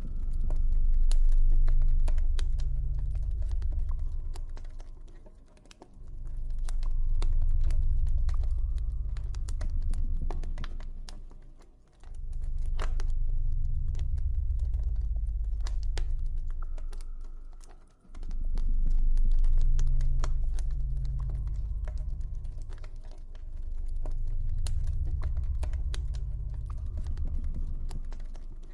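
Campfire crackling with many small sharp pops, over a deep low ambient drone that swells and fades about every six seconds.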